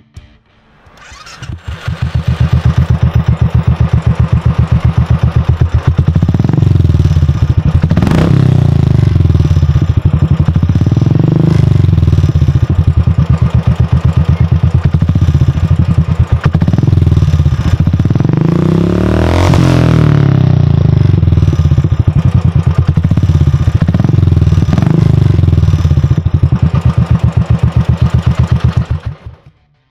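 Royal Enfield single-cylinder motorcycle engine running through a Khalidaro Smart Cannon aftermarket exhaust, a loud, evenly pulsing thump at idle. It comes in about two seconds in, gets several quick throttle blips with the biggest about two-thirds of the way through, and cuts off suddenly near the end.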